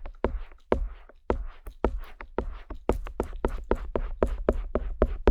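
A stainless steel ear pick tapping and working over the silicone outer ear of a 3Dio binaural microphone: rapid, irregular sharp clicks, about four to six a second with a short pause about a second in, over a low rumble of contact with the mic ear.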